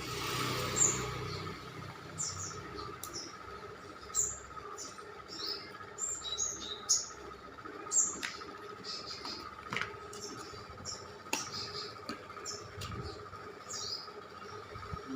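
Small birds chirping over and over, short high chirps that drop in pitch, over a steady faint high hum. A few sharp clicks stand out, the loudest about 8 and 11 seconds in.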